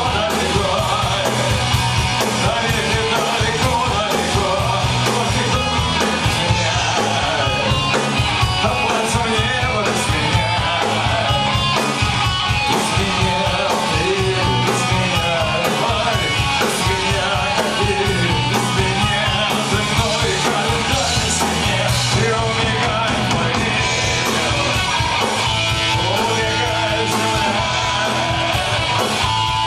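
Punk rock band playing live, loud and steady, with a singer's voice over the driving beat.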